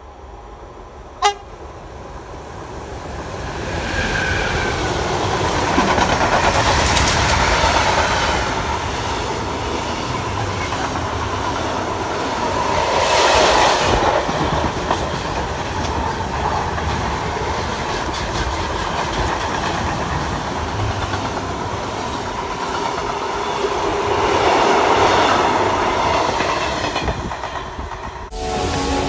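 Freight train passing close by: the electric locomotive's approach builds to a loud rush, then a long run of intermodal wagons follows with steady wheel-on-rail noise that swells twice. A brief sharp sound about a second in. The sound cuts off near the end.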